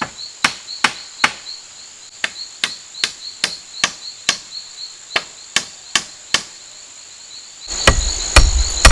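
Steady rhythmic chopping, about two and a half strokes a second, stopping about six and a half seconds in, over a continuous high buzz of insects. Near the end a low rumble comes in with more knocks.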